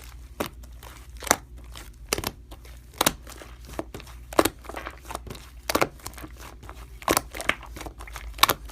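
Slime being squished and worked by hand, giving sharp, irregular clicking pops about one to two a second.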